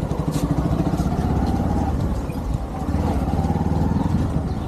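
Motorcycle engine running under way, its pitch rising twice as it accelerates.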